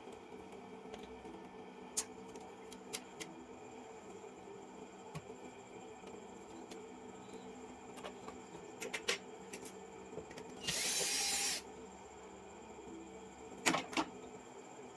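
Scattered small clicks and taps from small parts being handled during a keyboard button repair, over a steady faint hum. Just past the middle comes a hiss lasting about a second, and near the end a louder pair of clicks.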